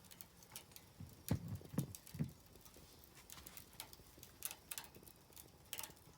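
Wood fire crackling: scattered sharp snaps, with three louder pops in quick succession between one and two and a half seconds in and another cluster near the end.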